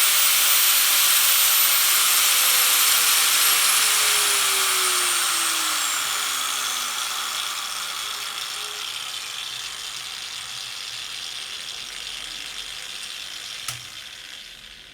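5-inch APT angle grinder with no disc fitted, winding down from top speed: the motor's whine falls steadily in pitch while the rush of air from its vents fades over about ten seconds. A single sharp click comes near the end.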